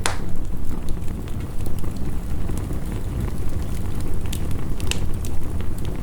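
Wood fire crackling, with sharp pops, the loudest right at the start and another about five seconds in, over a steady low rush of heavy rain.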